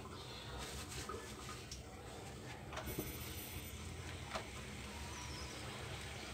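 Fish pieces in masala frying in oil in an iron kadai: a faint steady sizzle with a few soft crackles.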